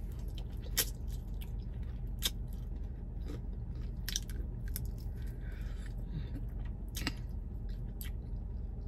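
Chewing a chicken wing close to the microphone: scattered mouth clicks and smacks over a steady low hum.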